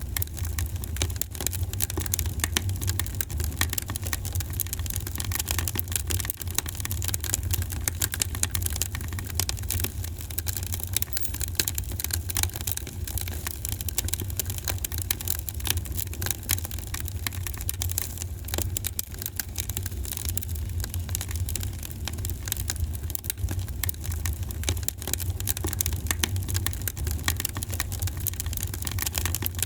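Wood fire burning in a fireplace: many small, irregular crackles a second over a steady low rumble of the flames.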